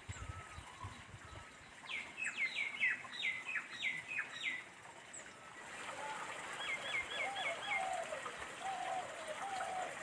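Wild birds calling: a run of quick, sharp, falling notes for a couple of seconds, then a short fast trill midway, with lower wavering calls underneath in the second half.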